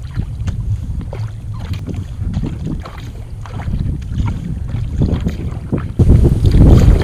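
Wind buffeting the microphone over the splash and drip of a sea kayak paddle dipping into the water. About six seconds in, the wind noise suddenly gets much louder.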